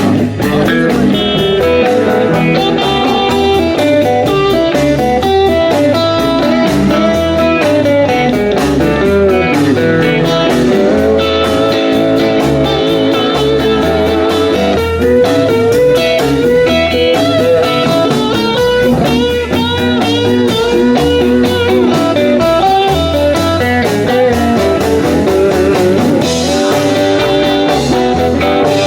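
Live blues band playing an instrumental break: electric guitar lead with bending notes over bass and drums.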